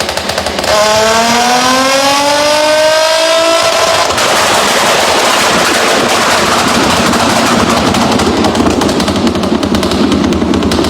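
A performance engine revving, its pitch climbing steadily for about three seconds. It then breaks into a long, dense string of loud exhaust pops and crackles, like rapid gunfire.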